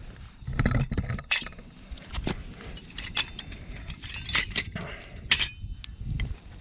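Pieces of dry firewood knocking and clattering together as they are picked up and gathered by hand: a string of sharp clicks and knocks, a few of them ringing briefly, with dull thuds in between.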